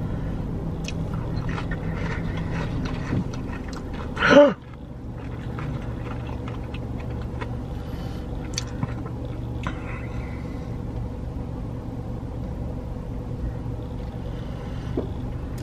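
Chewing and mouth sounds of someone eating fried chicken rings dipped in ranch, with small scattered clicks, over the steady low rumble of an idling car. About four seconds in there is one brief, loud vocal sound.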